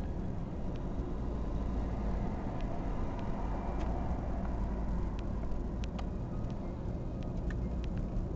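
An engine running steadily at a low, even speed, with scattered light clicks and taps over it.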